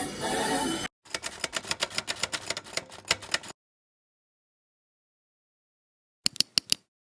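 Music cuts off about a second in. Then comes a quick run of light, sharp clicks, about eight a second for over two seconds, and after a dead-silent gap, four more quick clicks near the end.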